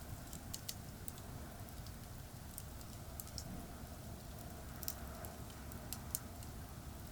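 Wood campfire crackling, with sparse, irregular small pops and ticks, over a steady low rumble of distant highway traffic.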